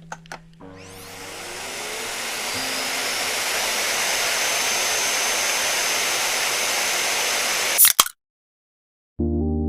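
Hair dryer switched on, its motor spinning up to a steady whir with a faint high whine, then switched off with a click about eight seconds in. Guitar music starts near the end.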